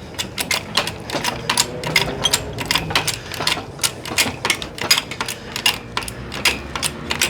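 Rapid, irregular metallic clicking and clinking, several sharp clicks a second.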